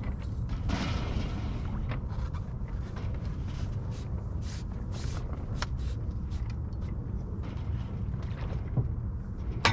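Scattered light clicks and knocks of a sailboat's jib pole and its fittings being handled as it is taken down, with one sharper click near the end, over a steady low rumble.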